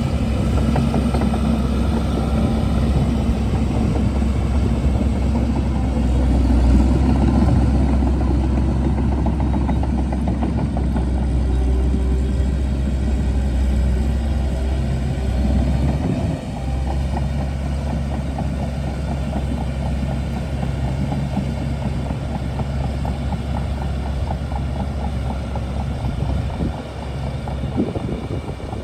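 Shantui DH17C2 bulldozer's diesel engine running steadily, with a brief dip in its note about halfway through and the level easing off near the end.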